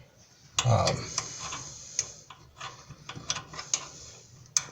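Scattered small clicks and ticks of metal dryer parts being handled and fitted by hand, with a brief spoken word about half a second in.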